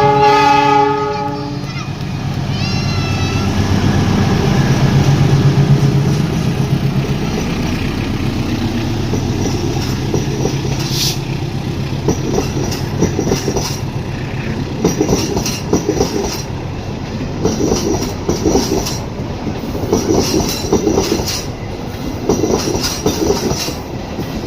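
Passenger train passing: a horn blast for about a second and a half at the start, then the locomotive's engine drone, then the wheels clattering rhythmically over rail joints as the coaches go by.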